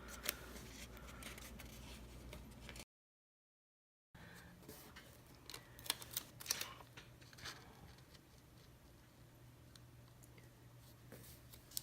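Faint handling of planner sticker sheets and paper: scattered light clicks, taps and scrapes as stickers are peeled and pressed down, with a brief dead-silent gap about three seconds in where the recording was cut.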